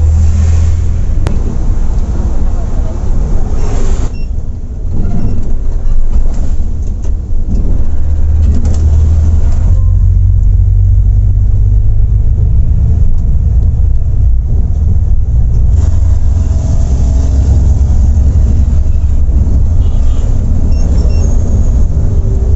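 Volvo B8R coach running along the highway, its diesel engine and road noise heard as a heavy, steady low rumble inside the passenger cabin.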